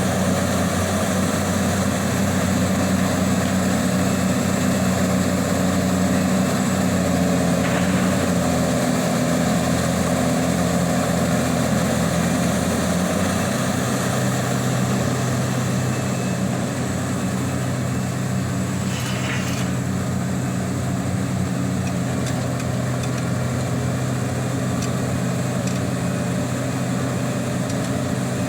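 Liebherr 984 hydraulic excavator's diesel engine running steadily, its pitch shifting a little as the load changes. Two short rushing sounds cut in about a third of the way through and again past the middle.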